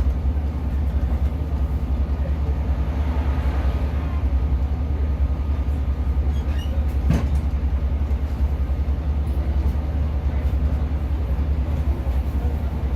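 Class 150 diesel multiple unit under way, heard from inside the carriage: a steady low drone from the underfloor diesel engine and the running gear, with a single sharp click about seven seconds in.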